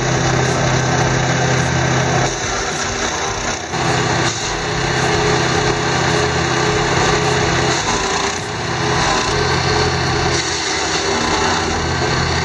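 Engine-driven wood chipper running steadily, its note dipping and changing several times.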